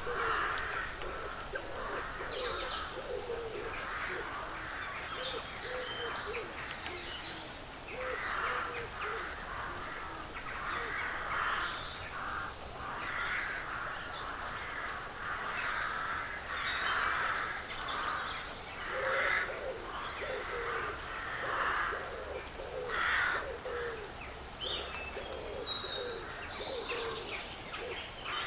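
Woodland birds calling throughout. Loud rasping calls come every second or two over a lower warbling, with scattered high chirps and short whistles.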